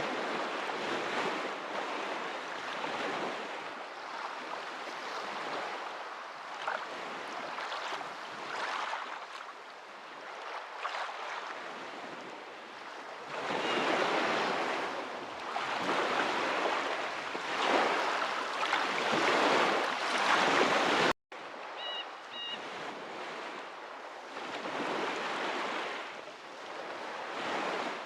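Ocean waves washing in, the surf swelling and ebbing every few seconds. The sound cuts out for an instant about three-quarters of the way through, where the recording jumps.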